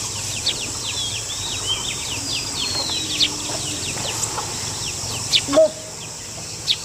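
Birds chirping in many short, quick calls over a steady high-pitched insect drone, with a louder, lower call about five and a half seconds in.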